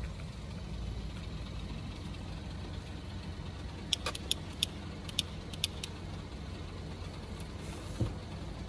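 An SUV's engine idling with a steady low rumble. About halfway through come a handful of sharp, light, irregular clicks.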